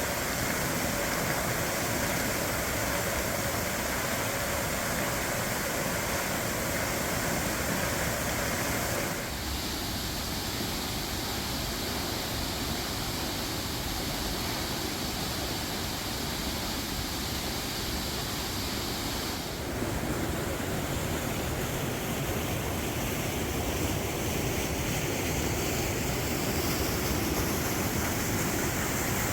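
Steady rushing and splashing of a waterfall, Eagle Falls, in strong flow. The tone of the rush changes abruptly twice, about a third and two-thirds of the way through.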